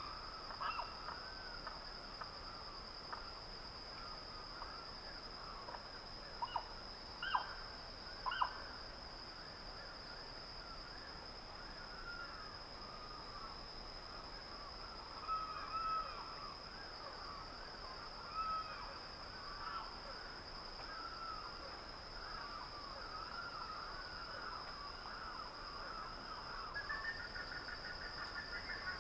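Dawn bird chorus: many birds calling in short arched chirps, with a few louder sharp calls about a quarter of the way in and a rapid trilling call near the end. A steady high-pitched whine runs underneath.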